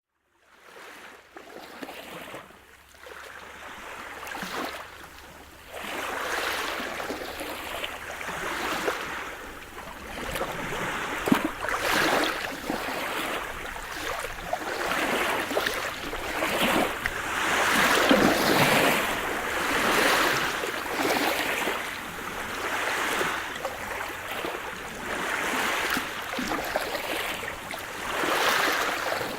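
Sea surf: waves washing in and breaking in repeated swells of noise that rise and ebb every second or two, fading in from silence over the first few seconds.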